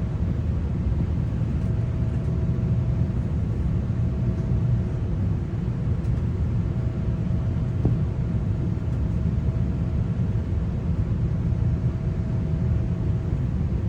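Steady low rumble of a GO Transit train heard from inside the coach, with a faint steady hum that drops in and out, and a single click about eight seconds in.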